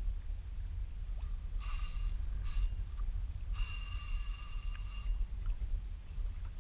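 Fishing reel whirring in three short bursts, the last about a second and a half long, over a steady low rumble.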